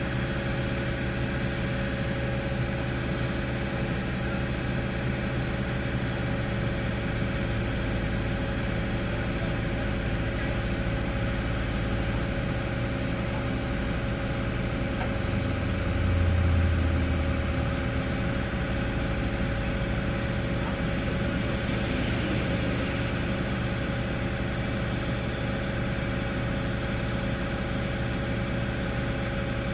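Diesel engine of a Komatsu PC50UU-2 mini excavator running steadily at a low, even speed. About halfway through there is a brief louder low surge.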